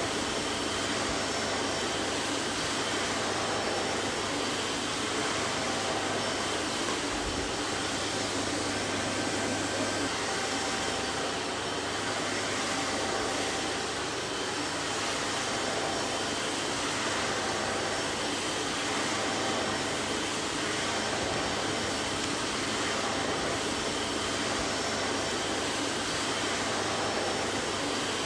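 Vacuum cleaner running steadily: an even rushing hiss of air with a faint motor whine and a low hum, unchanging throughout.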